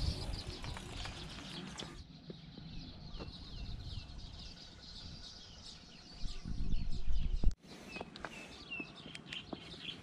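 Birds chirping outdoors, with repeated short, quick, down-slurred chirps. A loud low rumble swells up near the end and cuts off abruptly about seven and a half seconds in.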